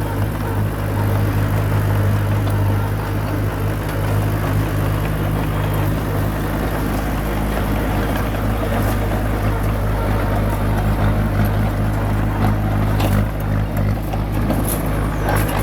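Komatsu crawler bulldozer's diesel engine running steadily with a deep, even hum, with a few metallic clanks near the end.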